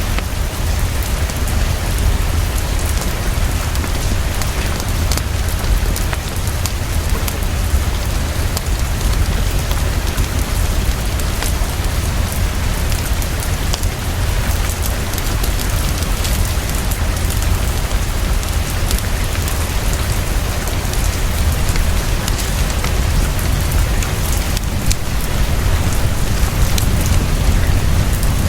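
Heavy, fast, steady rainfall, with a continuous deep rumble underneath and scattered sharp ticks of drops.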